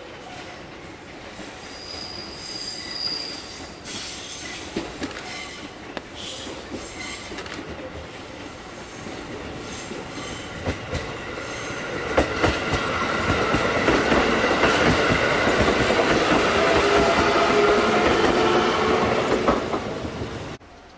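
Electric passenger train approaching and passing close by, getting steadily louder, with a few wheel clicks over the rail joints. From about halfway it is loud, with a steady high squeal of wheels on the rails and points. The sound cuts off abruptly near the end.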